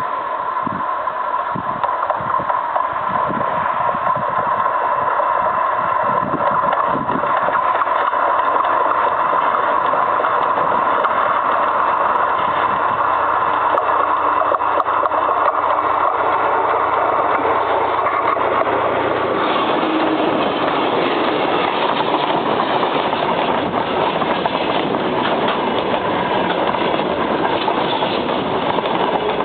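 Freight train wheels running on the rails, heard from right beneath the train: a steady, loud rolling rumble with a whining tone. A few knocks come in the first several seconds, and the noise grows fuller about two-thirds through.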